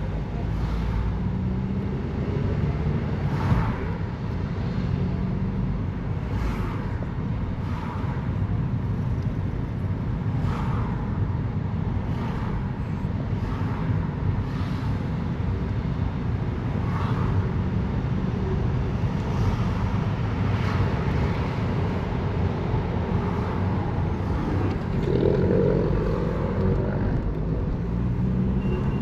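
Steady low rumble of road traffic, with faint footsteps on a path about every second and a half.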